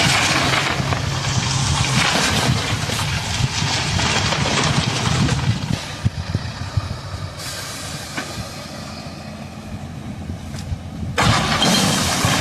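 A vehicle engine running with a low rumble under noisy hiss. The sound jumps abruptly louder about eleven seconds in.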